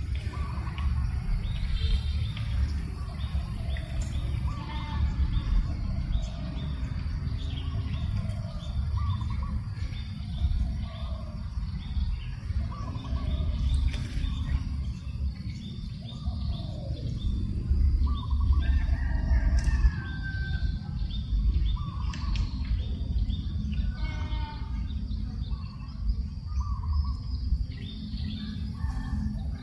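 Several birds chirping and calling in short repeated phrases, over a steady low rumble of breeze on the microphone.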